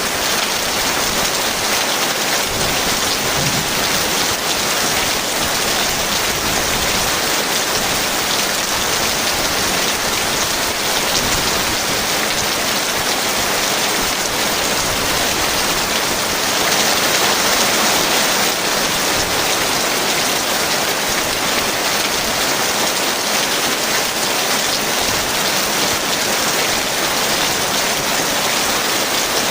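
Heavy rain falling steadily, an even dense hiss that swells slightly a little past halfway.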